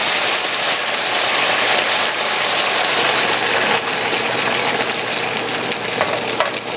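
Chicken curry sizzling steadily in a pan, with coconut milk poured in about four seconds in; the sizzle eases a little after the pour.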